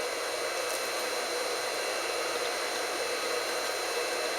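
Steady, even hiss of blowing air, with a faint high steady whine running through it.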